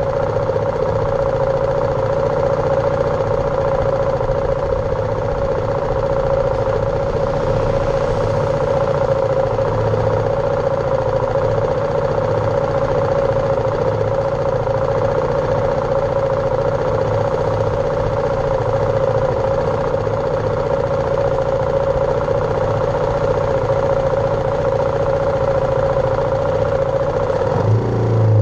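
BMW G310R's single-cylinder engine running at steady revs with an even hum. Its pitch changes abruptly at the very end as the revs shift.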